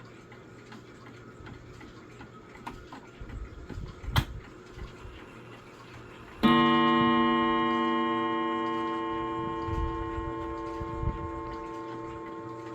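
Mantle clock ticking faintly, then striking once on its gong about six and a half seconds in; the note rings on with many overtones and slowly dies away.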